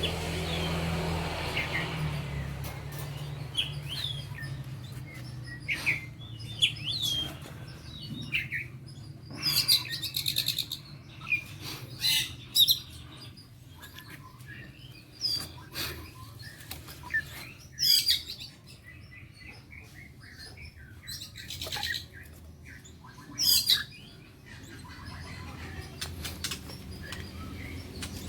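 Kept songbirds chirping and whistling in short, separate phrases, with a few louder calls scattered through, over a low steady hum.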